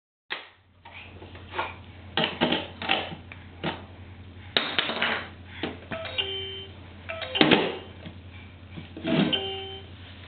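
Plastic letter pieces of a LeapFrog Fridge Phonics toy knocking and clattering as they are handled and pushed into the reader, with two short electronic tones from the toy, about six seconds in and again near the end.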